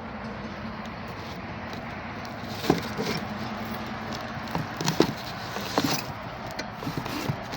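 Rain gun sprinkler running: a steady rush of the water jet over the low hum of a pump engine, with several irregular sharp knocks in the second half.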